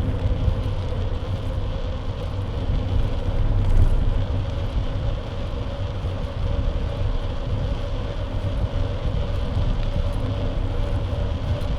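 Steady wind buffeting and road rumble on an action camera mounted to the front side of a moving bike, with a faint steady whine running underneath.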